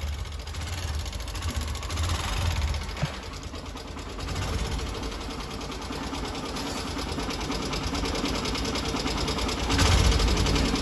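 Honda Shine BS6 motorcycle's single-cylinder engine running with a loud, rapid, sewing-machine-like clatter from a worn-out timing chain; the rocker tappets also need adjusting.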